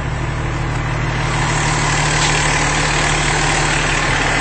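A vehicle's engine idling steadily, with a broad wash of noise building from about a second in.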